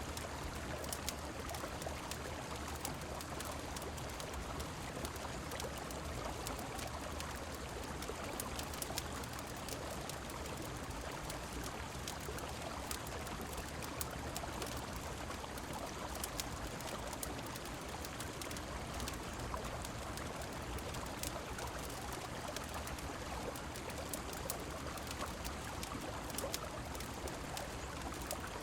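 Steady rush of a flowing river and falling rain, mixed with the crackle of a fireplace heard as frequent small, sharp pops.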